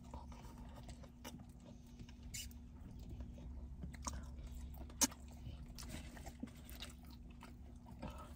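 Close-up chewing of french fries: soft wet mouth sounds and small scattered clicks, with one sharper click about five seconds in. A faint steady low hum runs underneath.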